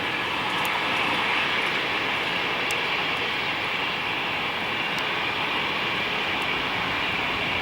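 Boeing 767-204ER jet engines running, a steady rushing noise.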